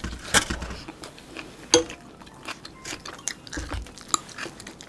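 Close-miked chewing and wet mouth clicks of people eating North Korean tofu rice, fried tofu pockets stuffed with rice, and soy-based artificial-meat rice. The sounds come as scattered short smacks, two louder ones about a third of a second and nearly two seconds in.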